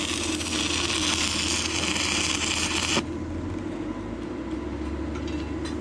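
Stick-welding arc from an inverter arc welder, crackling and hissing steadily for about three seconds, then cutting off suddenly as the arc is broken. A steady low hum runs underneath.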